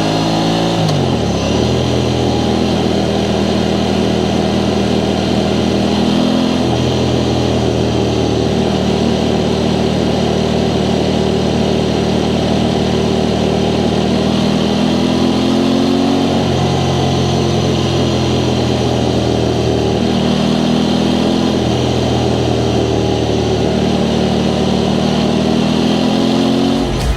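Aprilia Tuono 660 Factory's parallel-twin engine through its stock exhaust, heard on the move: the revs fall about a second in, then several times climb steadily and drop at an upshift.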